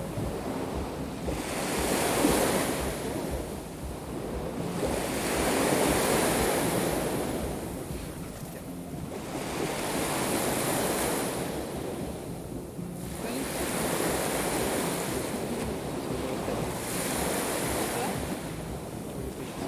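Black Sea waves breaking and washing up the shore, one swell every three to four seconds, with wind buffeting the microphone.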